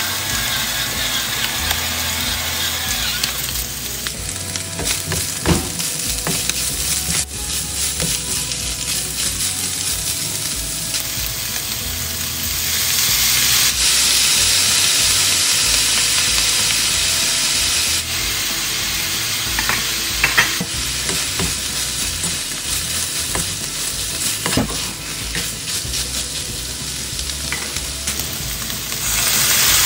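Shredded chicken and sliced onion sizzling in oil in a nonstick wok, with a spatula stirring and now and then clicking against the pan. Near the middle the sizzle grows louder for several seconds as dark sauce hits the hot pan.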